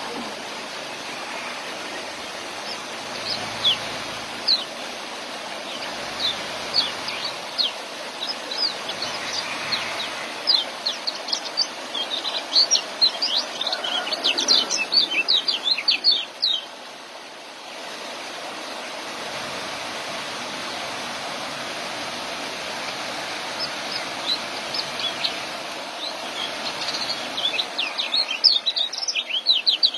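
Young kecial (white-eye) singing its fast 'ngeriwik' twittering: runs of quick, high chirps in bursts, the longest in the middle and another near the end, over a steady rushing hiss.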